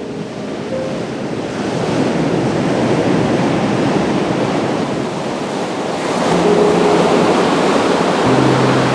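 Ocean surf washing onto a beach: a continuous roar of breaking waves that swells about two seconds in and again around six seconds.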